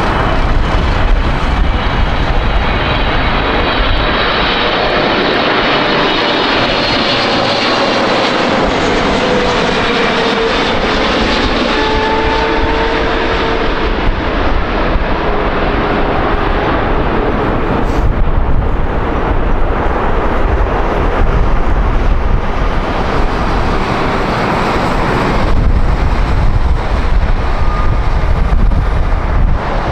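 Jet airliner passing close by: loud, steady engine noise with whining tones that slowly fall in pitch. A deeper rumble sets in near the end.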